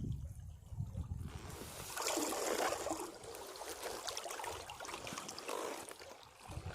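Sea waves breaking against rocks: a low surge dies away in the first second, then a wash of foaming, trickling water runs off the rocks, loudest a couple of seconds in and ebbing before the next surge comes in near the end.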